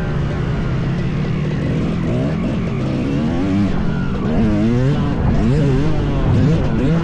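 Two-stroke dirt bike engine being ridden hard, its revs rising and falling again and again as the throttle is worked.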